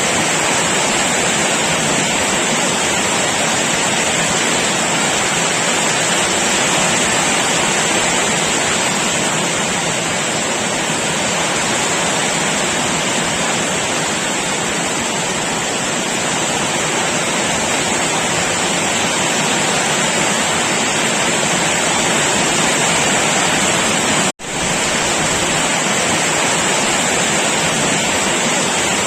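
Heavy rain falling in a steady, dense downpour, an even hiss across the whole range. About 24 seconds in, the sound cuts out for a split second and comes straight back.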